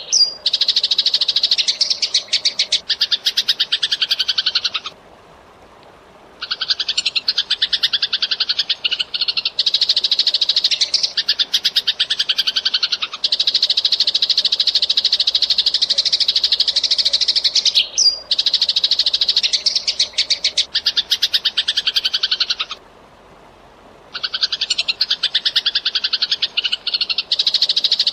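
Eurasian tree sparrow chattering in long, fast runs of dense chirps, broken twice by a pause of about a second.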